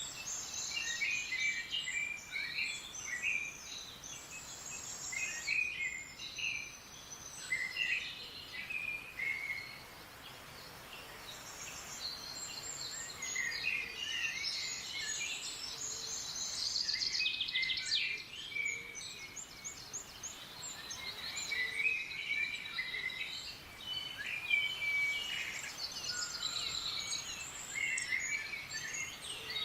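Several songbirds chirping and singing in quick, overlapping phrases and trills, with short lulls between bouts, over a steady background hiss.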